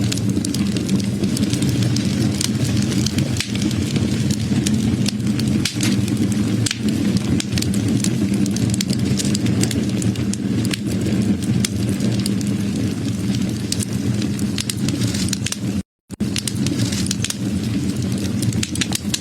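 Wood fire crackling, with many sharp pops and snaps over a steady low rumble. The sound cuts out for a split second about sixteen seconds in.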